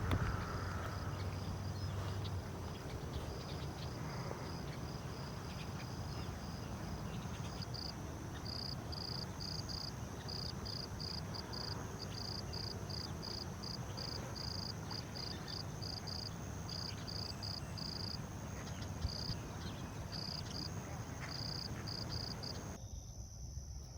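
Insects chirping outdoors in summer: a steady high-pitched trill that breaks into short, evenly spaced pulses, about two a second, about a third of the way in, over a steady low rumble. The sound changes abruptly about a second before the end.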